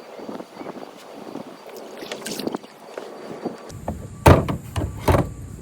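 Water splashing and lapping against a kayak, then two loud sharp knocks about four and five seconds in.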